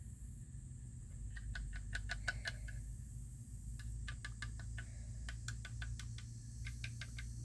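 Two runs of quick, light clicks or taps, several a second, over a low steady hum.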